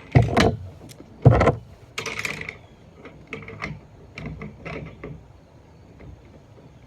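Small metal hardware being handled while a second lock nut is fitted onto a bolt: two loud knocks near the start, a brief scrape about two seconds in, then a run of lighter clicks that dies away near the end.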